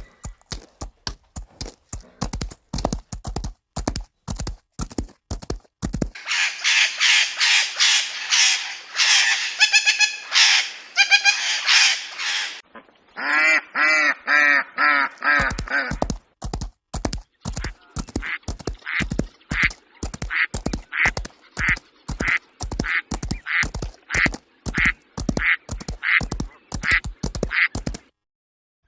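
Ducks quacking, with harsher, denser squawking calls in the middle and a short run of four clear quacks after it, set among long runs of rapid, evenly repeated clicks.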